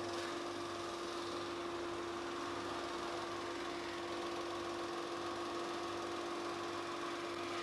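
Sander motor running steadily with an even, constant hum, used to flatten a glued-up chessboard panel.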